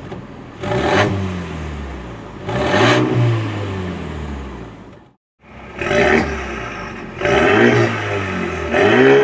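Mercedes-AMG CLA35's turbocharged 2.0-litre four-cylinder revved in short blips through an ARMYTRIX valvetronic turbo-back exhaust. The first two blips come with the exhaust valves closed; after a brief cut, three more come with the valves open.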